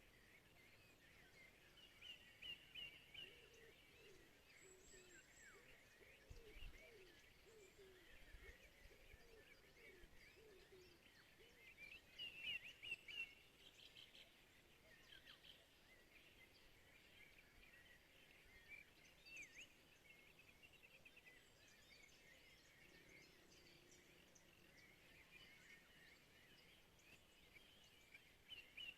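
Faint birdsong from several birds, mostly short chirps and quick trills over a steady hiss of background noise. Trilled phrases stand out a few seconds in, around the middle and again near the end, with a run of lower-pitched calls in the first third.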